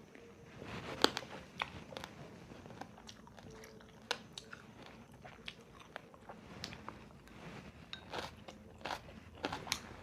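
Close-up chewing and biting into crunchy food, with irregular crisp crunches throughout, the sharpest about a second in.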